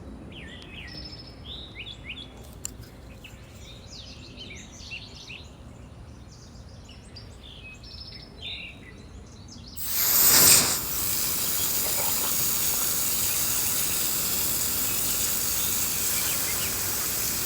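Small birds chirping and calling outdoors over a soft background. About ten seconds in, a much louder steady hiss starts abruptly and covers them.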